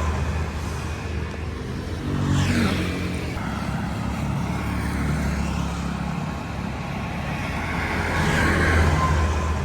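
Street traffic: vehicle engines running steadily, with two vehicles passing close by, one about two seconds in and one near the end.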